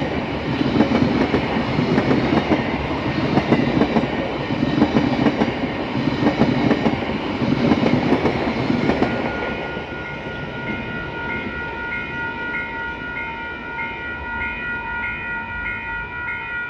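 Passenger carriages rolling past over a level crossing, their wheels clattering on the rails, until the last carriage clears about nine seconds in. After that the level-crossing warning bells ring on alone in a steady repeating pattern.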